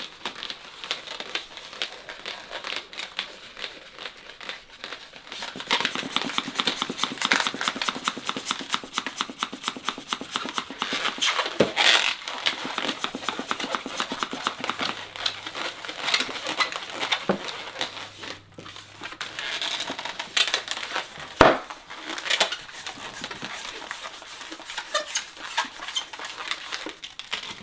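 Latex modelling balloons being handled, stretched and twisted by hand: rubbery squeaking and crinkling, densest between about six and thirteen seconds in, with a few sharp knocks, the loudest about two-thirds of the way through.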